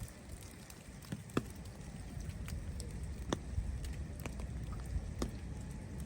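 Falling snow landing: sparse, irregular light ticks and soft patter, some sharper than others, over a low steady rumble.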